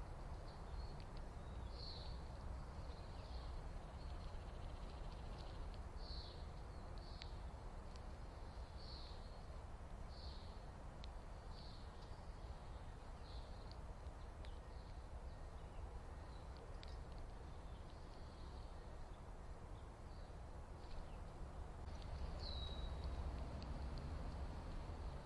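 Small birds chirping: short, high calls about once a second, one of them a clear downward-sliding chirp near the end, over a faint low steady rumble.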